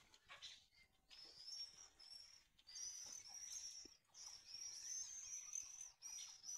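Faint, high-pitched bird chirps repeating rapidly, almost without a break, from about a second in.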